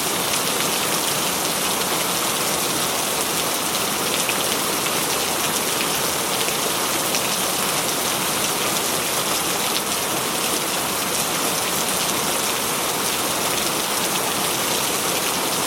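Heavy rain falling steadily on a corrugated metal roof: a dense, even hiss of countless drop hits, with no thunder.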